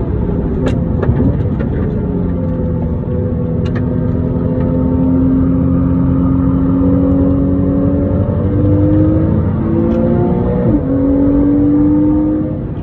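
Porsche Cayman S (987) 3.4-litre flat-six heard from inside the cabin, pulling hard on track. A gear change about a second in is followed by a long, slow climb in revs and a quick upshift near the end; the revs rise again briefly before the note falls away.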